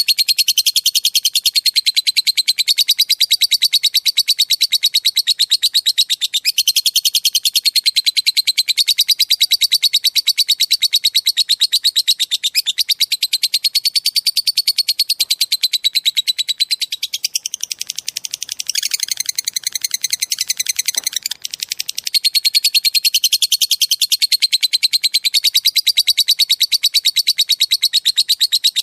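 Small songbird trilling: a fast, unbroken run of high chirping notes, many a second, wavering gently in pitch. About two-thirds of the way through it turns softer and changes pattern for a few seconds, then the steady trill resumes.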